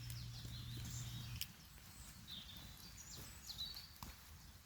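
Small woodland birds singing: repeated short chirps and whistled notes. A low steady hum underneath cuts off with a click about a second and a half in.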